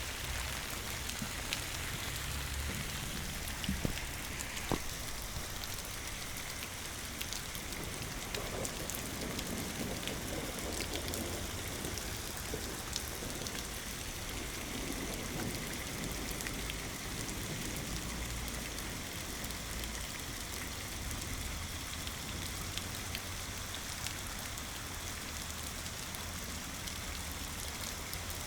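Steady rain falling, with many individual drops ticking close by and a few louder drop hits about four and five seconds in.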